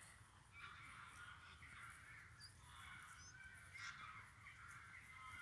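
Faint, distant crows cawing repeatedly, harsh calls about half a second each, with a few small bird chirps in between.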